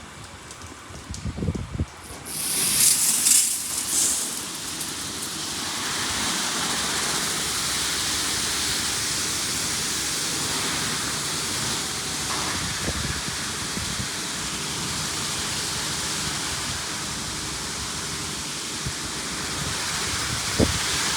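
LaserWash G5 touch-free car wash spraying water onto the car, heard from inside the cabin: a loud hissing burst of spray about two seconds in, then a steady hiss of water on the body and windows.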